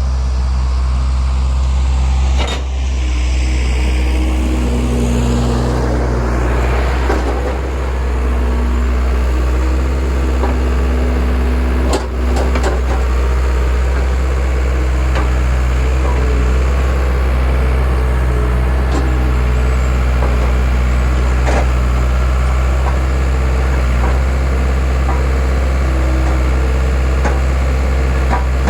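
Skid steer engine running steadily, powering a homemade hydraulic log splitter, with a few sharp knocks or cracks.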